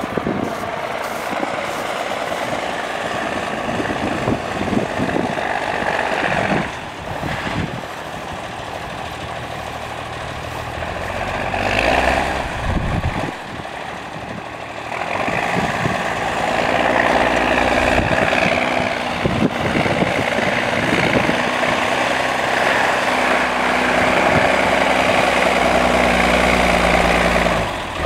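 Wind buffeting the microphone at first, then a 1973 M35A2 deuce-and-a-half's six-cylinder multifuel turbo-diesel running, its steady low drone taking over from about halfway through after a short dip.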